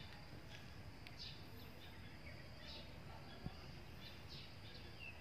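Faint outdoor background: a bird giving short, high chirps now and then over a low, steady rumble.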